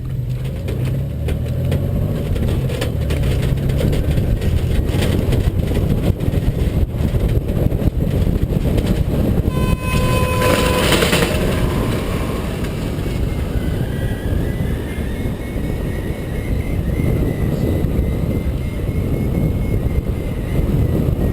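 Wind rushing and buffeting over the microphone as a hang glider is towed aloft behind a truck. A short beep sounds about ten seconds in, and a faint wavering tone runs through the second half.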